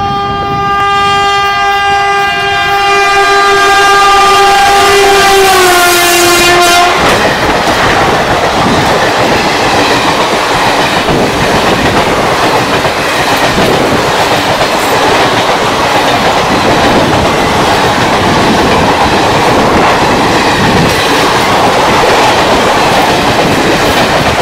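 Indian Railways passenger train passing through a station at speed. The locomotive's horn sounds continuously and drops in pitch as the locomotive goes by, about six seconds in, then stops. The coaches follow, rushing past with a loud, steady rattle and clatter of wheels on the rails.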